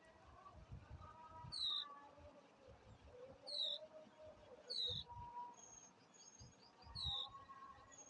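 A bird giving a short, sharp call that drops in pitch, four times at uneven intervals of one to two seconds.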